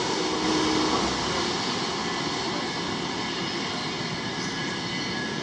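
Humsafar Express's LHB coaches running through at speed: a steady rush of wheel and rail noise with a faint high whine over it.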